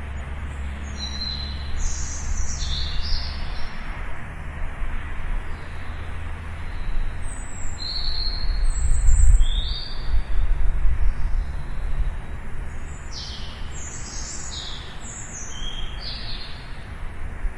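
Songbirds chirping in three bursts of quick, high, sliding notes, over a steady low rumble that swells about halfway through.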